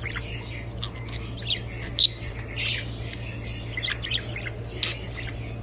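Small pet parrots, lovebirds and budgerigars, chirping in many short high calls, with sharper calls about two seconds in and again near the end, over a steady low hum.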